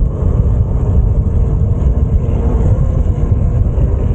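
Loud, steady low rumble of wind buffeting the microphone while riding an e-bike off-road.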